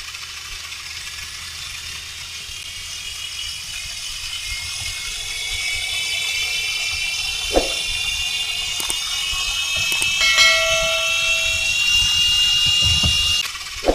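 Small battery-powered remote-control toy car running along a plastic track: a motor whine over the rattle of wheels on the track. The whine climbs slowly in pitch and cuts off suddenly near the end.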